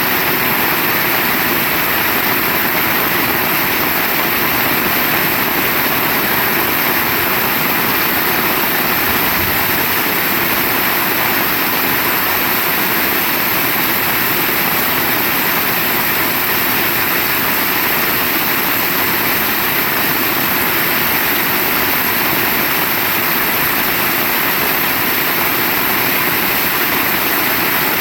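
Heavy rain falling steadily: a dense, even hiss of downpour with no letting up.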